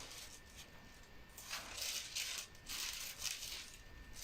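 Faint rustling and handling noises, several short rustles in the second half, as the reading passage is being found.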